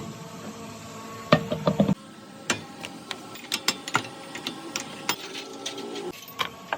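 Hand tools clicking and knocking on metal parts: a run of irregular sharp clicks and taps, a couple of them much louder than the rest.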